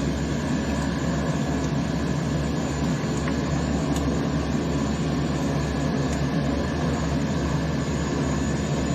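Propeller aircraft engine running steadily at taxi power as the aircraft taxis.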